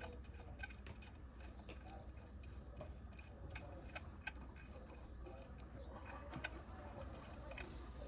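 Light, irregular clicks and taps of small metal engine parts and hand tools being handled during motorcycle engine reassembly, over a steady low hum.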